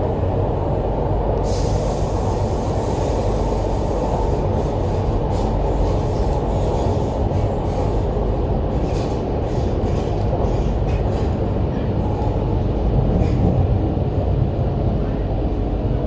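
MTR Island Line Q-Train metro running through the tunnel, heard from inside the carriage: a steady rumble of wheels and traction gear. From about a second and a half in, short high hisses and squeaks come and go over it.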